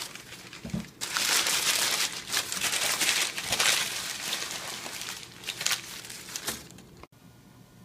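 Packaging being handled and crumpled by hand, a dense crinkling that goes on for several seconds, fades, and stops abruptly near the end.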